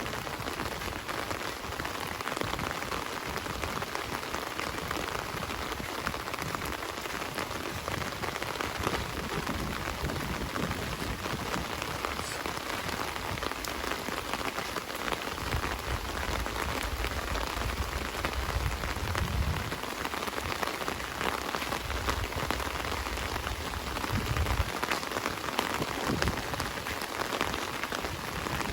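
Heavy rain falling steadily and splattering on surfaces, with a low rumble coming and going in the second half.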